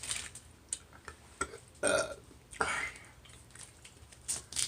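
A person burping about two seconds in, amid small clicks and smacks of eating.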